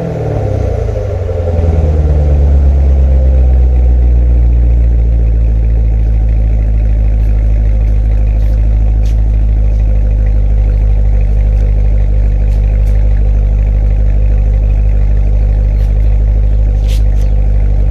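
C7 Corvette Grand Sport's 6.2-litre LT1 V8 settling from a rev back to idle in the first second or two, then idling steadily while warming up after a cold start.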